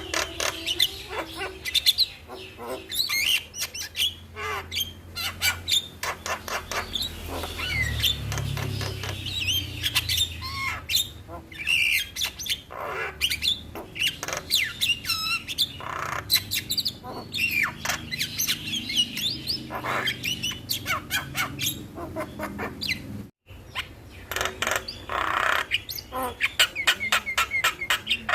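Javan mynas (jalak kebo) calling in a busy run of chirps, whistles, squawks and rapid clicking notes, the song used as masteran to coax captive birds into singing.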